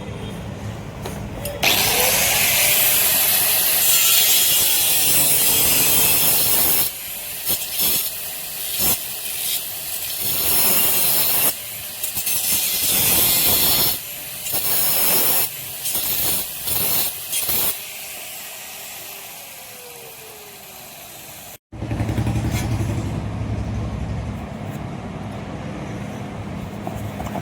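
Power tool working on steel, a loud harsh noise. It starts about two seconds in, then cuts out and restarts repeatedly before dying away. A steadier, lower hum follows near the end.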